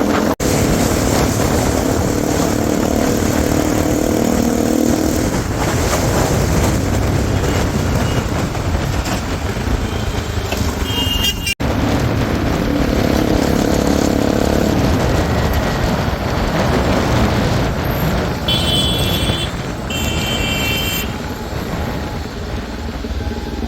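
Bajaj Pulsar NS200's single-cylinder engine running while riding in traffic, with a steady rush of wind and road noise; the engine note pulls up in two stretches of acceleration. Near the end a vehicle horn sounds twice.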